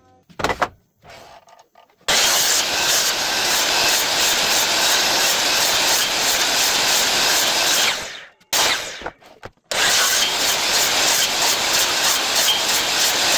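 A woodworking tool cuts or sands wood in two steady, loud runs, about six seconds and then about four seconds long. A few short knocks come near the start and between the runs.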